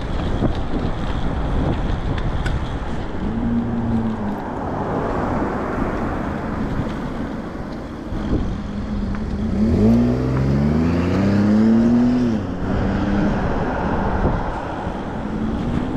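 Wind rumble and road noise on a moving e-bike, with street traffic around it. About ten seconds in, a nearby car engine accelerates and rises in pitch for a couple of seconds.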